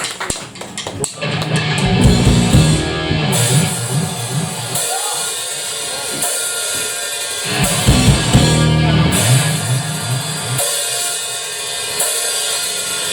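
Rock band playing an instrumental intro on drum kit, bass and electric guitar. A few sharp drum hits come in the first second, then the full band plays with heavy bass-drum and bass notes.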